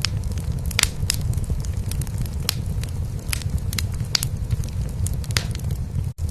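Wood fire crackling in a fireplace, with scattered sharp pops, over a steady low rumble of a cat purring. Both break off for a moment near the end.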